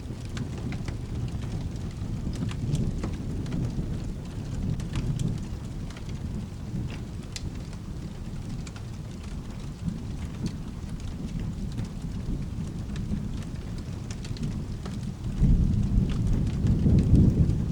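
Steady rain with a continuous low thunder rumble, scattered with sharp ticks. About fifteen seconds in the rumble swells into a louder roll of thunder.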